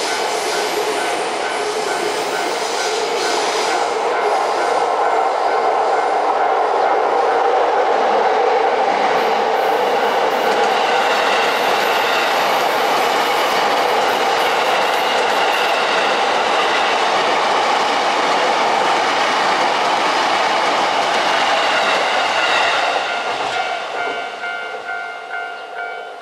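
An electric multiple-unit train runs past on the track, with a steady rumble of wheels on rail. After about 23 seconds the sound fades, with a rhythmic clickety-clack of wheels over rail joints as the train draws away.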